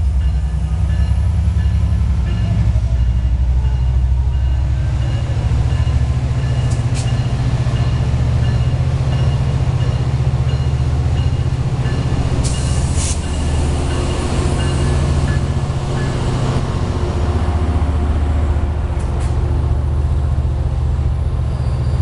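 Amtrak F59PHI diesel-electric locomotives running at a steady low drone, with a few brief sharp clicks.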